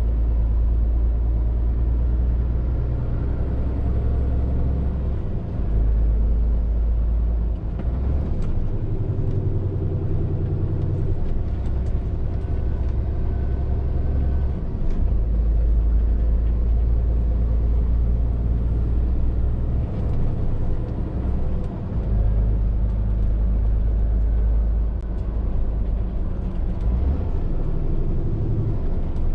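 Scania R450 lorry driving along: a steady low engine drone with road noise. The drone shifts up and down in pitch every few seconds as the engine speed changes.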